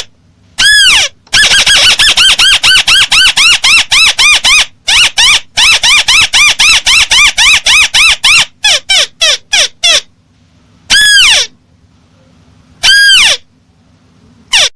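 Crake (burung tikusan) lure call, loud: a fast run of short notes that each rise and fall in pitch. After a pause come two single drawn-out notes near the end.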